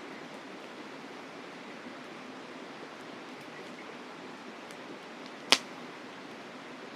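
Campfire burning over the steady rush of a flowing mountain river, with faint small ticks and one sharp, loud pop from the burning wood about five and a half seconds in.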